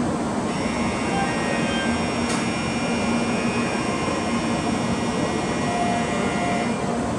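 N700S Shinkansen train humming at the platform, with a steady high-pitched whine of several tones that starts about half a second in and stops about half a second before the end.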